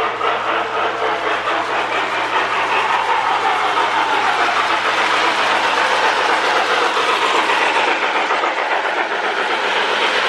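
Lionel 2055 postwar O-gauge steam locomotive running steadily on three-rail track, motor and wheels running, with a RailSounds tender giving a fast, regular steam chuff.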